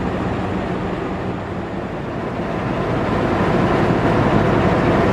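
Passenger train running with a steady low rumble and hum, growing louder from about two seconds in.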